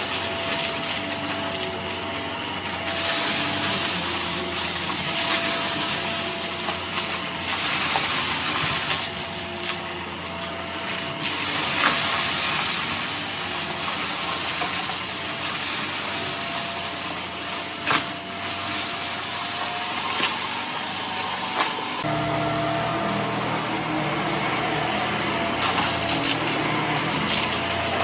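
Vacuum cleaner running steadily with a constant motor whine, sucking up debris with scattered crackles and ticks. About three-quarters of the way through, the sound changes and gets deeper.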